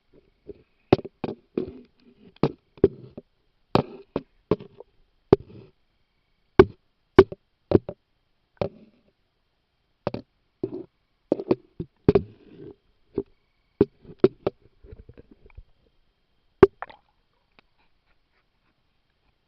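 Irregular knocks and taps on an action camera's waterproof housing, heard muffled from inside the sealed case while it is handled in water. They come every half second to second or so and stop about three seconds before the end.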